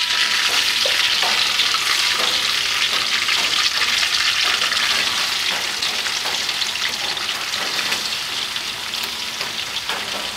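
Giant squid tentacle pieces frying in hot oil in a wok: a dense, steady crackling sizzle that grows slightly quieter toward the end.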